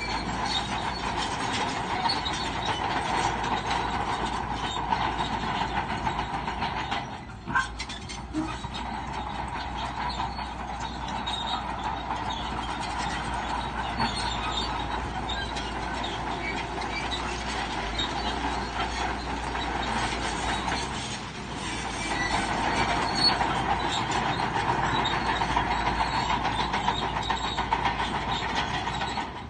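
Crawler bulldozer working, its steel tracks clanking and squealing steadily over the engine, easing off briefly twice.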